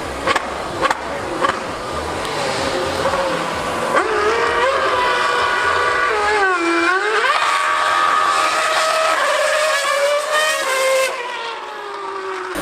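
A 2013 Formula 1 car's high-revving V8 screaming past at speed. The pitch climbs and steps between gears, drops sharply around six seconds in, then climbs again.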